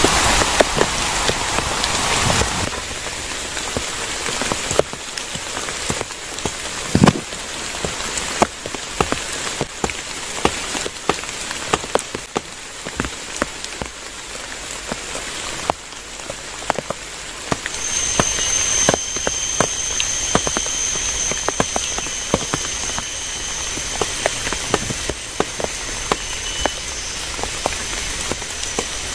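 Rain falling, with many separate drops tapping sharply close by. About two-thirds of the way through, a thin high steady whine joins in and holds.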